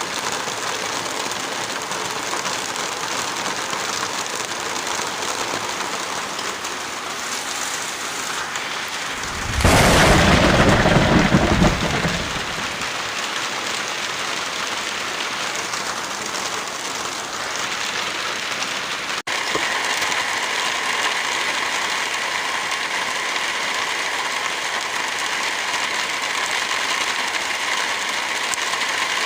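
Heavy rain falling steadily, with one loud, deep thunderclap about ten seconds in that lasts a couple of seconds. About two-thirds of the way through, the sound cuts out for an instant and the rain resumes with a slightly different, steadier tone.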